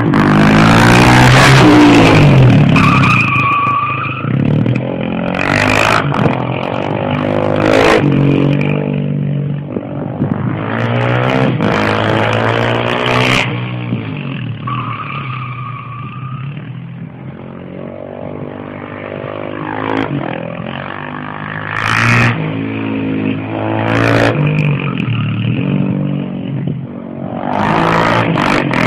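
Suzuki DR-Z400SM's single-cylinder four-stroke engine revving up and down as the supermoto accelerates and brakes around the kart track. It is loudest in the first few seconds, fades as the bike goes to the far side, and grows again near the end.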